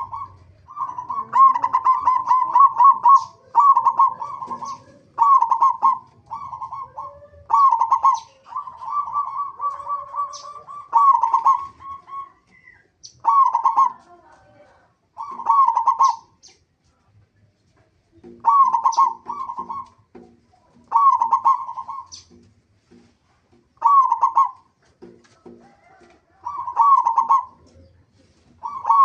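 Zebra dove (perkutut) singing: repeated short phrases of rapid, bubbling coo notes. The phrases come close together at first and then at intervals of about two to three seconds.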